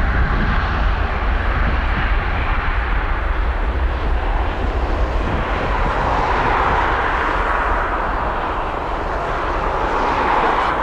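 Airbus A350-900's Rolls-Royce Trent XWB jet engines running at high thrust: a loud, steady rushing noise over a deep rumble, slowly fading toward the end.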